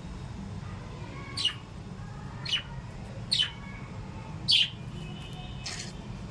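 Small pet parrots calling: four short, sharp calls falling in pitch, about a second apart, then a harsher call near the end, over a steady low hum.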